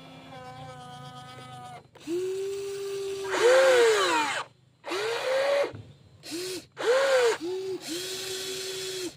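Small electric gear motors of a WL16800 RC model excavator whining in a series of short runs. Each run starts and stops, some holding a steady pitch and others rising and falling as the arm and bucket move.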